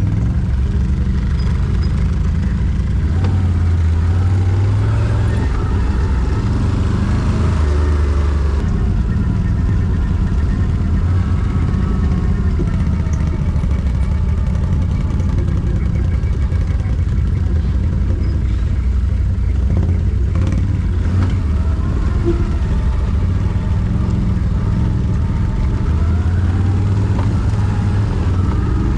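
Quad bike (ATV) engine running without a break, its revs rising and falling, with a strong low drone.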